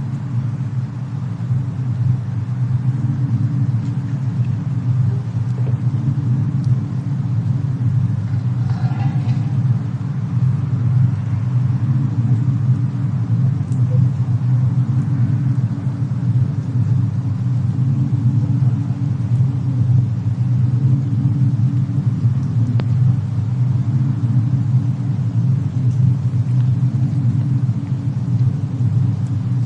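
Steady low rumble of a snowstorm-and-fireplace ambience mix, with an occasional faint crackle.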